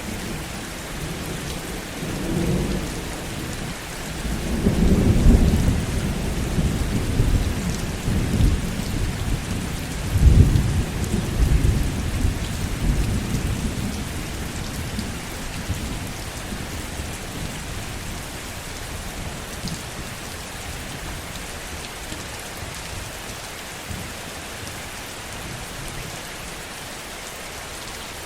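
Steady heavy rain with a low rolling thunder rumble that swells twice in the first half and fades out, leaving only the rain.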